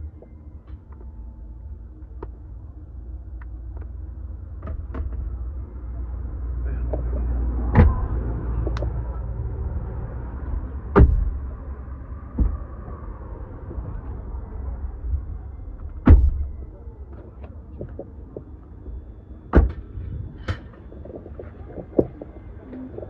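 Low steady rumble of a vehicle, swelling for a few seconds in the middle, with about seven sharp knocks or clicks scattered through it.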